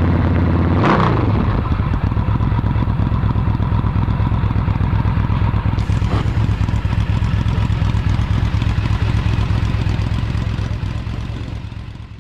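Yamaha VMax 1700's V-four engine through an aftermarket Akrapovic exhaust. The revs drop sharply about a second in, then the engine runs steadily at low revs and fades out near the end.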